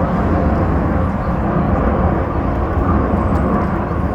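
Aircraft engine noise at an air show: a steady, deep rumble with no clear pitch.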